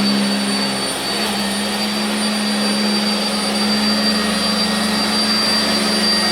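Sanitaire SC679j commercial upright vacuum cleaner running steadily, a constant motor hum with a thin high whine over it.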